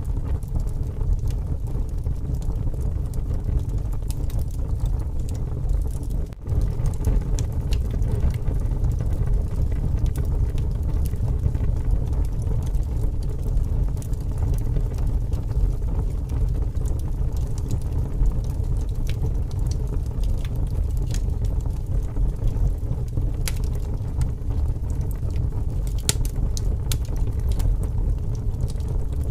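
Wood fire crackling with scattered sharp pops, over a steady low rumble of strong wind.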